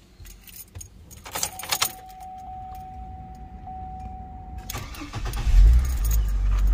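Keys jangle about a second and a half in and a steady electronic warning tone comes on, then near five seconds the GMC Envoy's Vortec 4200 inline-six cranks, catches and settles into a steady idle.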